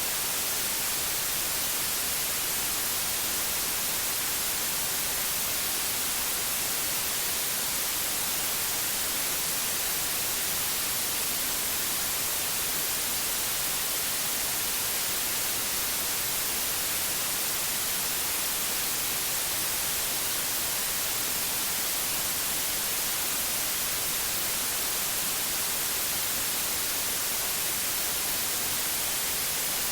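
Steady electronic white noise: an even, unchanging hiss, brightest in the high range.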